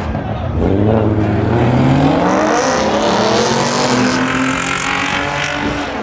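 Car engine accelerating under load: its pitch climbs over the first two or three seconds, holds higher, then eases off near the end.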